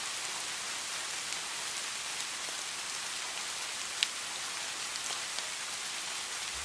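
Steady rain falling, an even hiss, with one sharp tick about four seconds in.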